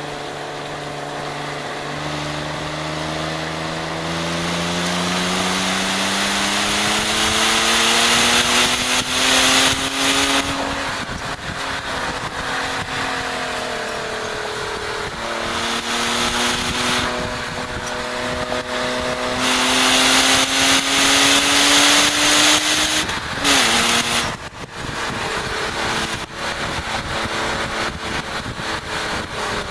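BMW E36 325is's 2.5-litre straight-six pulling hard on track, its pitch climbing steadily, easing, then climbing again before falling off sharply about three-quarters of the way in. Heavy wind noise rushes over the outside-mounted microphone.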